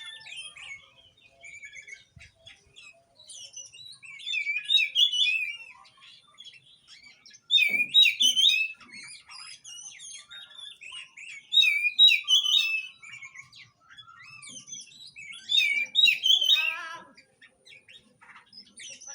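Oriental magpie-robin (kacer) singing: loud, varied whistled song phrases come back about every four seconds, with softer chirps between them. It is the kind of song played to get a silent captive magpie-robin to sing.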